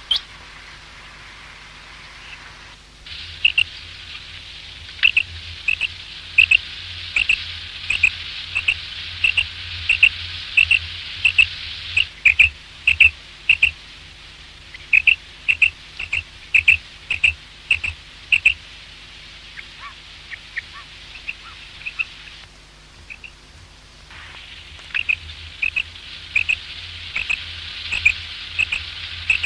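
Common quail calling over and over: short, sharp high notes in quick runs, about two to three a second, with short pauses between runs. A background hiss cuts in and out abruptly, as at splices in the recording.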